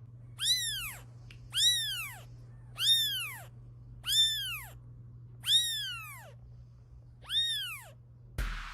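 A cat meowing six times in a row, each meow a high call that rises and then falls, spaced about a second or so apart, over a faint steady low hum.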